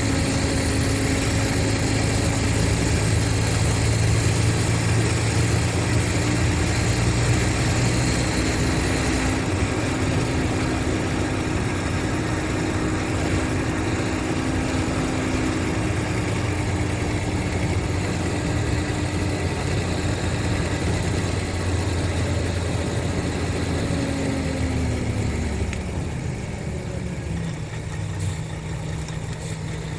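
Mercedes-Benz O500RSD coach's diesel engine running steadily. Its pitch falls about 25 seconds in as the engine slows.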